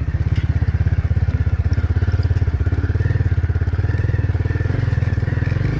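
Small vehicle engine running steadily at a constant speed, a fast even low throb.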